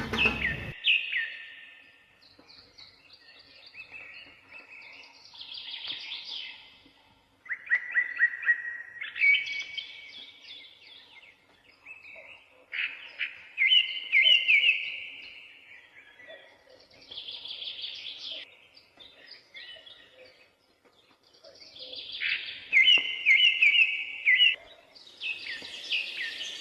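Songbirds singing outdoors: short, high chirping phrases and quick trills come in bursts every few seconds, with brief pauses between them.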